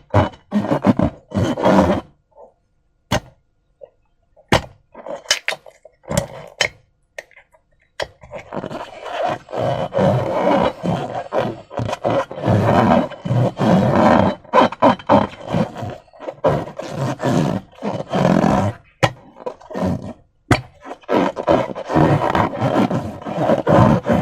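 Slime being squeezed and worked by hand, squelching irregularly. A few sharp clicks stand out in a sparser stretch from about two to eight seconds in, then the squelching runs dense to the end.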